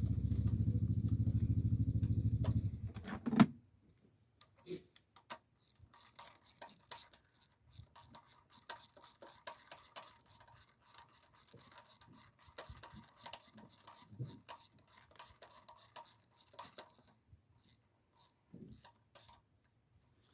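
A steady low hum for the first few seconds, ending in a sharp click. Then a long run of faint, quick ratchet clicks as a spark plug is snugged down.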